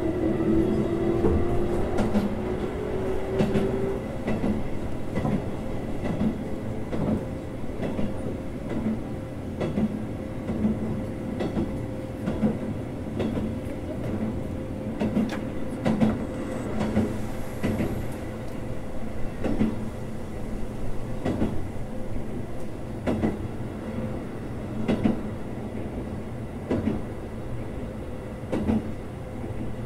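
Keikyu 600 series electric train running, heard from inside the car: a motor tone rises slightly in pitch over the first few seconds, then gives way to a steady running hum with regular clicks of the wheels over rail joints.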